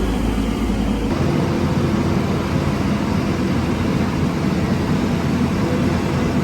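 Heavy road-construction machinery running steadily, a loud, continuous engine and mechanical noise; the sound shifts abruptly about a second in.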